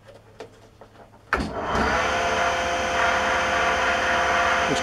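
Homemade table saw switched on about a second in: its motor and spindle run up to speed within half a second and then run steadily with an even hum and whine, the blade spinning free. It is quite a quiet one.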